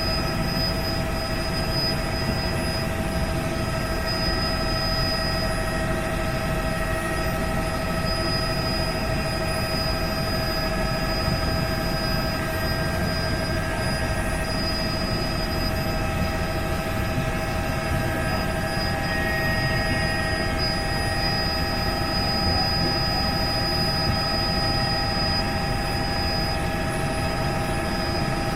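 Helicopter running steadily: a constant whine of several held tones over a low rumble, with no change in pitch or level.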